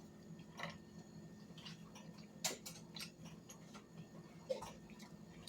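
Soft, scattered mouth clicks and smacks of someone eating chicken, a few separate ones several seconds apart, over a faint steady low hum.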